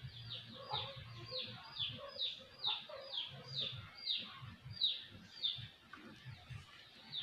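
A bird calling in the background: a fast series of short, high, downward-sliding chirps, about two or three a second, that stops near the end.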